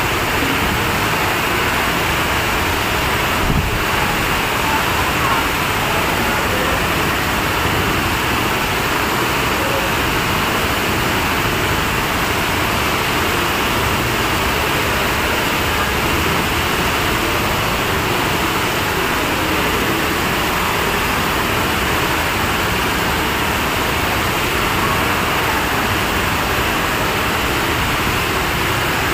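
Heavy downpour and rushing floodwater: a loud, steady, even rush of water noise.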